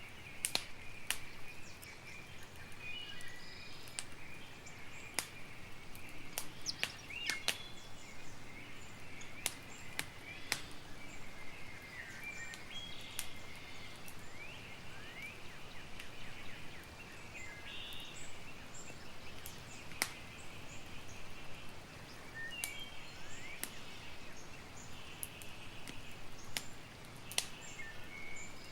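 Campfire crackling, with irregular sharp pops and snaps of burning wood. Behind it runs a steady chorus of outdoor chirping.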